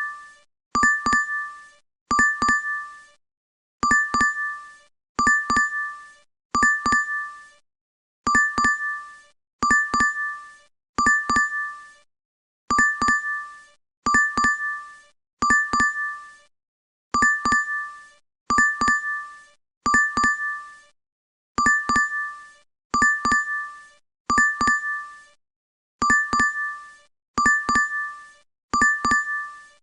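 DoorDash app notification chime played over and over, each time a quick pair of bright dings that ring briefly and fade, repeating about once a second with a few short gaps.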